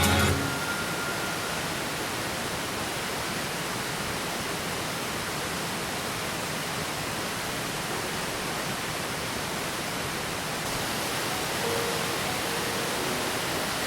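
Rushing water of a waterfall: a steady, even hiss of falling water.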